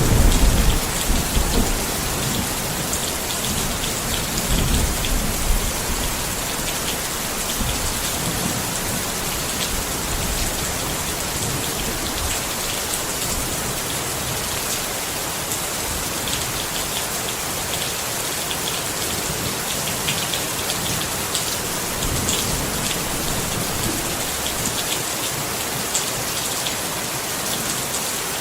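Steady rain falling on a tent, a dense hiss with scattered drop taps. Low rumbles swell at the start and again about five seconds in, then fade.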